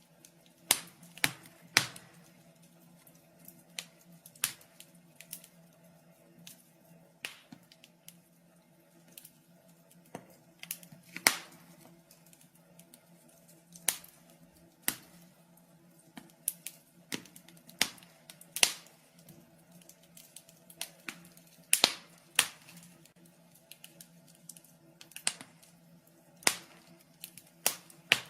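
Wood fire burning in a fireplace, crackling with sharp, irregular pops, some loud and some faint, over a faint steady low hum.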